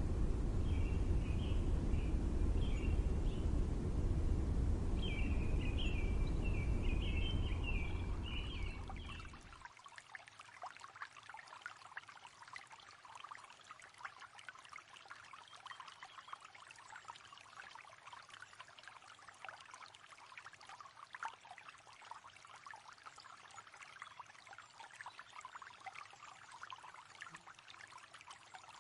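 A low, steady rumble of outdoor noise with birds chirping over it, cutting off suddenly about nine seconds in. It gives way to a quieter, continuous patter of trickling, splashing water.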